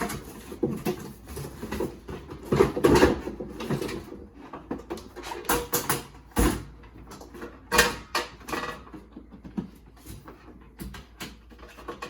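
Handling noise: a run of irregular knocks, clicks and rattles of objects being moved and set down, with the loudest knocks about half a second in, around two and a half to three seconds in, and around six and a half and eight seconds in.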